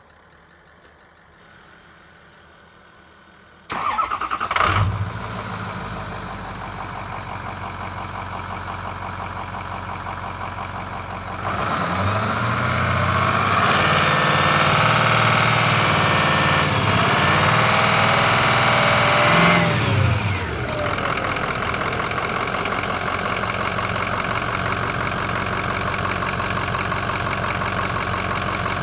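A Ford 6.0L Power Stroke V8 diesel engine starts about four seconds in and settles to an idle. It is revved for about nine seconds, its pitch rising and falling, then drops back to a steady idle.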